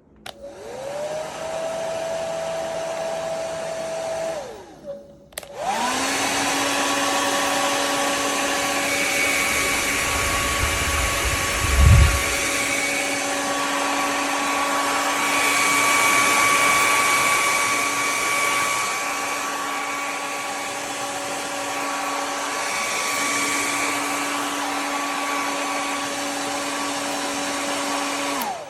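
Revlon compact 1875W hair dryer switched on, its motor winding up to a steady whine over the rush of air. It cuts off after about four seconds, then starts again at a different, slightly louder speed setting and runs steadily until it is switched off. A brief low rumble comes about halfway through.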